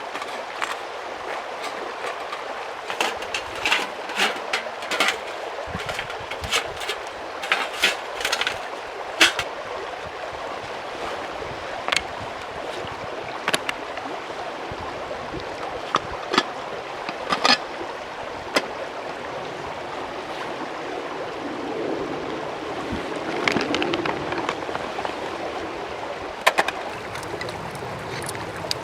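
Mountain stream running steadily, with scattered sharp clicks and knocks over it.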